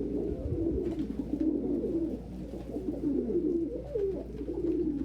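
Several domestic pigeons cooing continuously in the loft, low wavering coos overlapping one another.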